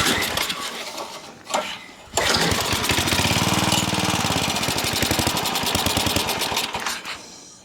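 Briggs & Stratton small engine on a Craftsman tiller being pull-started. After a couple of recoil pulls it catches about two seconds in and runs with rapid firing pulses for about five seconds, then dies away near the end, not staying running on freshly primed fuel.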